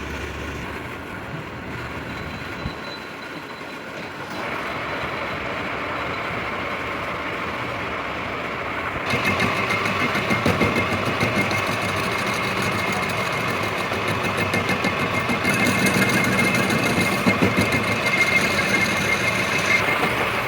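Lathe turning a steel truck axle: a steady mechanical running noise that gets louder about four seconds in and again, with a rougher flutter, about nine seconds in.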